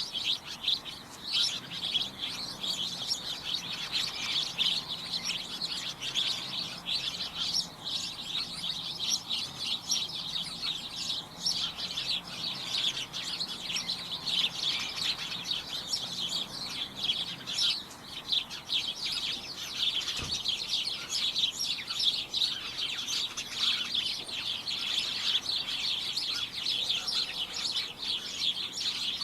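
A group of small birds chirping continuously: many short, high-pitched calls overlapping in a busy, cacophonous chatter.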